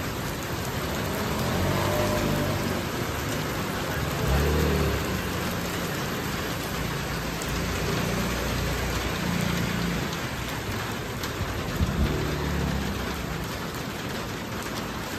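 Heavy rain falling on a paved street, a steady hiss, with cars passing on the wet road now and then and a brief sharper knock about twelve seconds in.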